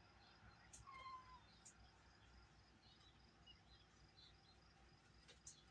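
Near silence, with one faint, short kitten mew about a second in and a few faint ticks.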